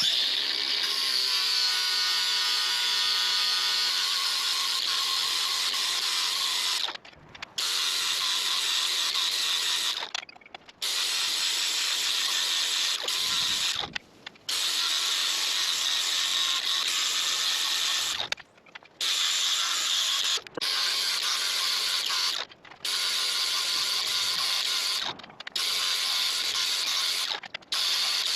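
Power tool abrading rusty steel in long continuous passes, with short breaks every two to four seconds as it is lifted off the work.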